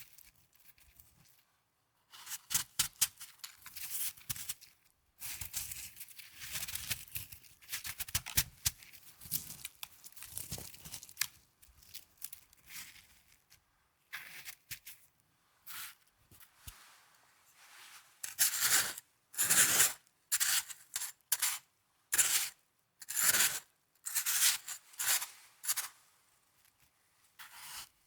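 Snow being handled close to the microphone, with crisp crunching and scraping. The sound begins about two seconds in as a run of irregular crackles, and later breaks into separate crunches about one to two a second.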